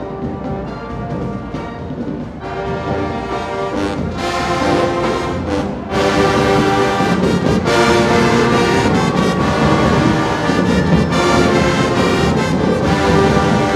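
Marching band brass section playing sustained chords that build, with a sudden jump to full volume about six seconds in, over drums.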